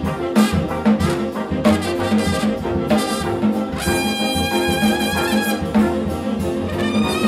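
Big band jazz with brass, bass and drums, a steady pulse carrying under cymbal strokes. About halfway through, a trumpet holds one long high note over the band.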